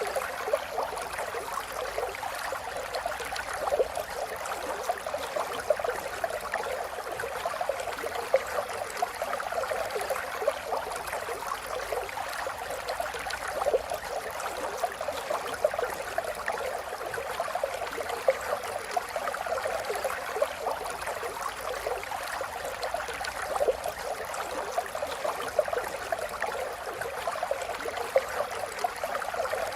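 River water flowing steadily over stones, a continuous babbling rush with small splashes and gurgles.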